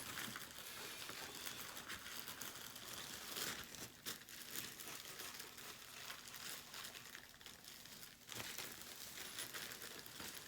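Faint, irregular crinkling and rustling of packaging or sheet material being handled by hand, with scattered small ticks.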